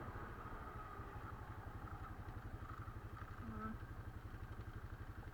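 Quad bike (ATV) engine idling with a steady, fast low putter.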